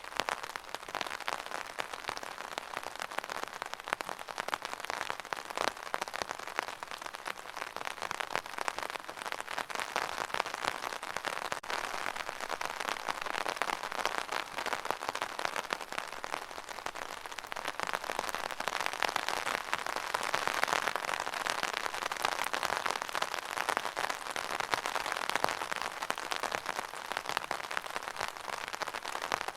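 Steady rain falling: a dense patter of many fine drops, swelling a little louder about two thirds of the way through.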